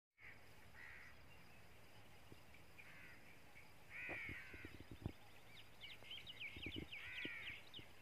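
Birds calling: four harsh, caw-like calls that rise and fall, the loudest about four seconds in and near the end, with a quick run of high twittering chirps between them. A few dull low knocks around the middle.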